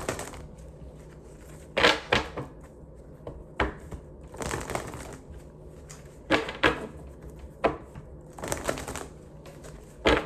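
A deck of cards being shuffled and handled: irregular rustling swishes and sharp taps, some about half a second long, with a steady low hum underneath.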